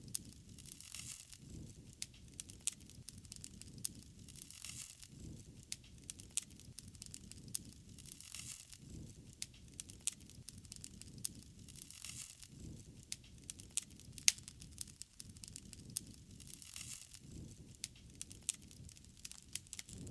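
Wood fire burning: steady crackling with scattered sharp pops, the loudest about fourteen seconds in, over a soft rushing that swells and fades every few seconds.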